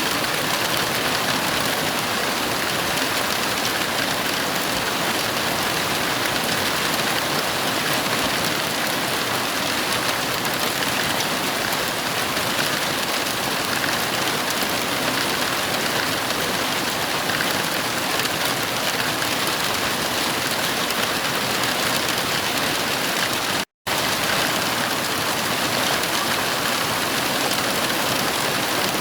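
Heavy rain falling steadily, an even hiss with no let-up. About four-fifths of the way through it cuts out to silence for a split second, then resumes.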